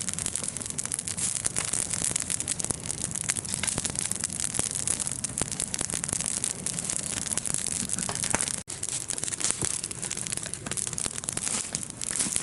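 Large wood campfire burning, with a steady hiss and many small, irregular crackles and pops. The sound cuts out briefly once, about two-thirds of the way through.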